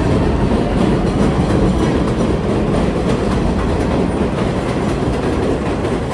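Subway train running on the elevated steel track over Roosevelt Avenue, a loud, steady rumble and rattle of wheels on rails.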